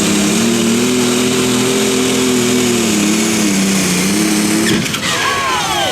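A competition pulling vehicle's engine running hard at high revs, its pitch wavering a little, then cutting off abruptly near the end, followed by a few falling whistling tones.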